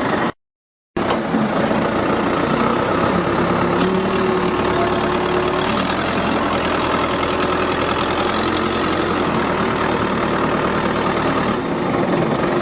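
An engine running steadily, from the machine used to hoist the car. The sound cuts out completely for about half a second just after the start.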